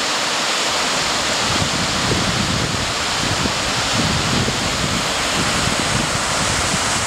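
Steady loud rushing noise, with low gusty buffeting of wind on the microphone from about a second and a half in.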